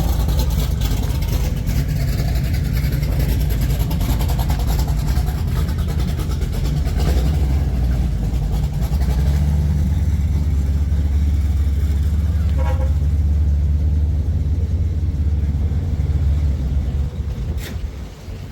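Car engines with a deep exhaust rumble as show cars drive off, the rumble heaviest in the second half.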